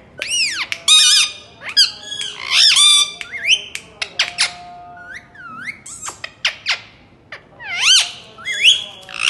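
Green parakeet giving a rapid series of shrill squawking calls, each sweeping up and down in pitch, in clusters separated by short pauses.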